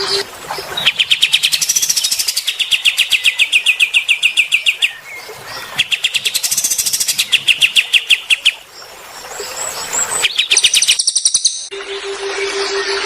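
Songbird song from a masteran recording of cililin and kapas tembak (pied triller): fast, buzzy trills of rapidly repeated notes in phrases of a second or two, separated by short pauses. A low, evenly pulsing tone sounds under the song at the start and again near the end.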